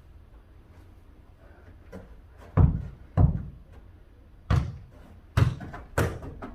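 A ball being kicked and bouncing back and forth in a foot-volleyball rally: five dull thuds, roughly half a second to a second apart, starting a little over halfway in.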